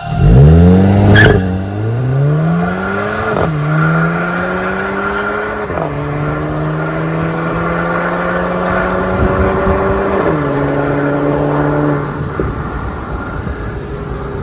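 VW Golf GTI Mk8's turbocharged 2.0 L EA888 evo4 four-cylinder accelerating hard through an MS-R valved cat-back exhaust. The revs climb from low, with a sharp crack about a second in. Then come three upshifts, each dropping the pitch before it climbs again.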